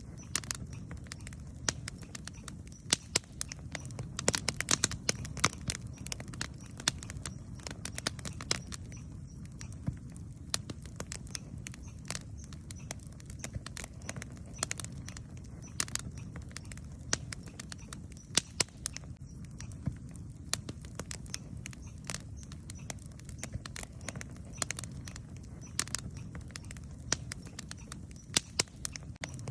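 Wood campfire crackling: sharp, irregular pops and snaps, several a second at times, over a low steady rumble.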